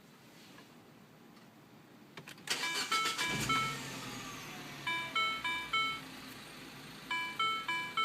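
A car's electronic warning chime: a sudden clunk about two and a half seconds in, then a four-note chime that plays three times, about every two seconds.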